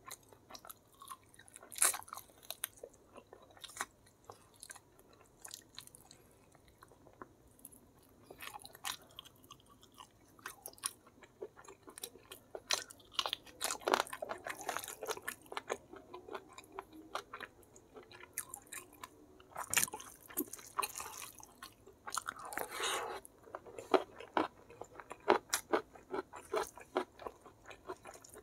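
Close-miked chewing of fried chicken in spicy gravy and rice, eaten by hand, with many irregular sharp mouth clicks and smacks. The chewing grows louder and busier about halfway through and again about three quarters of the way in.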